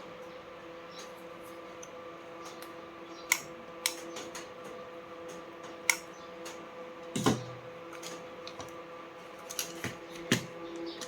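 Scattered sharp clicks and taps of small parts and tools being handled, about six in all at uneven intervals, over a steady electrical hum.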